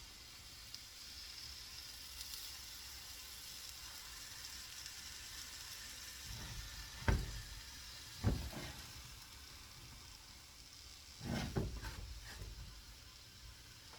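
Omelette with potato, mushroom, onion and ham sizzling steadily in a frying pan. A few sharp knocks against the pan come about 7 and 8 seconds in, and a short cluster of them comes around 11 to 12 seconds.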